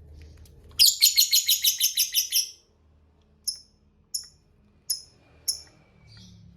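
Lovebird giving its rapid cackling 'ngekek' call: a fast run of harsh, high notes, about seven a second for nearly two seconds, followed by four single sharp chirps.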